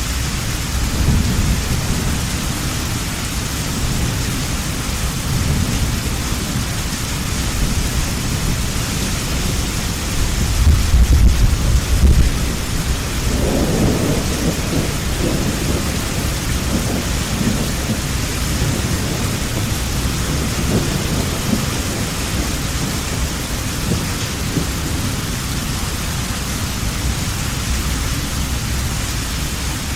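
Heavy rain falling steadily in a thunderstorm, with low rolling thunder underneath that swells into a louder rumble around the middle.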